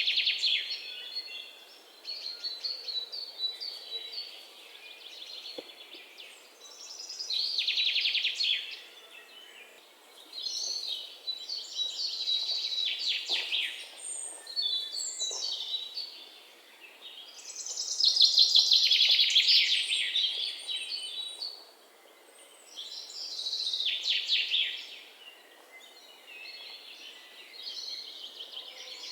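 Songbird singing: high-pitched phrases of rapid trilled notes, each lasting a second or two and repeating every five or six seconds, with quieter chirps between.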